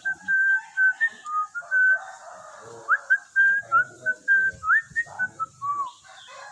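Cockatiel whistling a tune: a string of short, clear notes, with a couple of quick upward slides and a falling note near the end.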